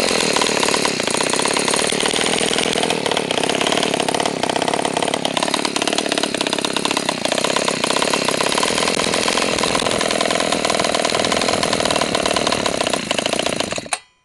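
Small two-stroke engine of a Go-Ped-style gas scooter running without a muffler, steady at a fast idle. Its pitch rises briefly about five seconds in, and it cuts off suddenly near the end.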